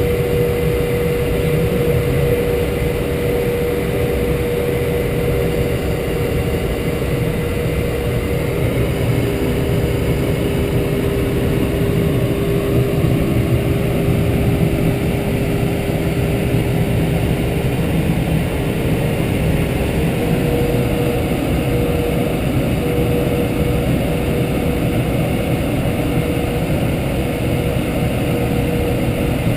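Light aircraft's piston engine and propeller running steadily in flight, heard from inside the cockpit: a constant drone whose pitch shifts slightly a couple of times.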